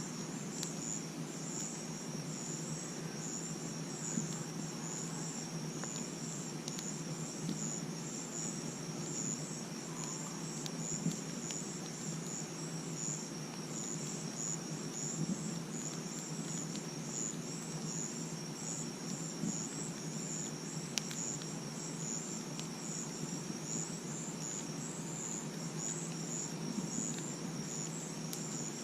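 Crickets chirping in a steady, fast-pulsing high trill, with a campfire giving a few scattered sharp crackles and pops.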